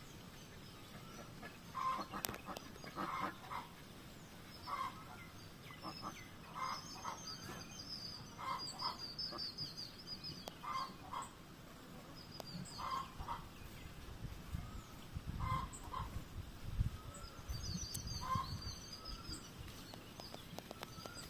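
Black chickens (karunkozhi) clucking in short calls every second or two, with spells of high chirping twice.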